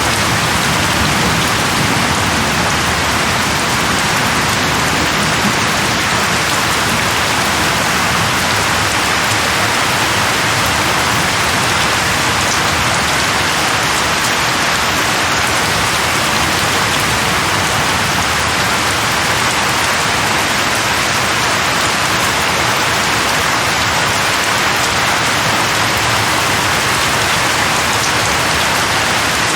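Steady, dense rain falling on leaves, an even hiss throughout. The low rumble of a thunderclap fades out in the first couple of seconds.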